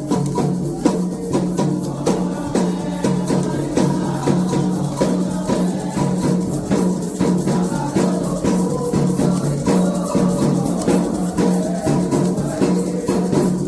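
Candomblé ritual percussion: atabaque hand drums with shaker rattles, playing a fast, steady rhythm.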